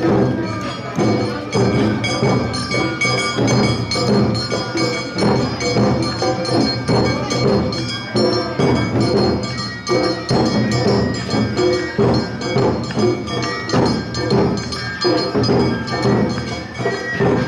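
Awa-odori festival band music: drums beating a steady marching rhythm under a ringing metal kane gong and held high melodic tones.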